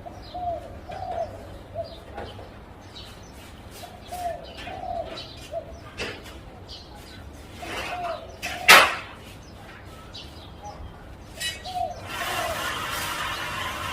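Zebra dove cooing in several short phrases of rapid, soft, bubbling notes, with high chirps of small birds around it. About two-thirds of the way through comes one loud sharp knock, and near the end a steady rushing noise sets in.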